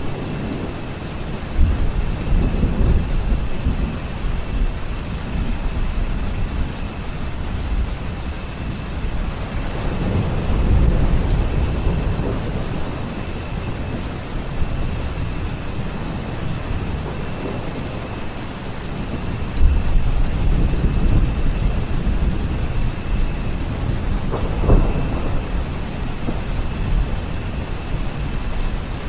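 Steady rain falling in a thunderstorm, with rolls of thunder swelling up several times and a sharper thunder crack near the end.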